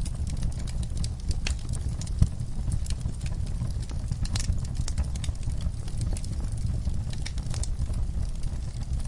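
Wood fire in a fireplace crackling, with frequent irregular sharp pops over a steady low rumble of the flames; one louder pop about two seconds in.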